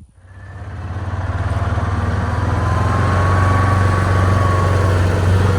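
An engine running steadily with a deep hum, building up over the first second and then holding level.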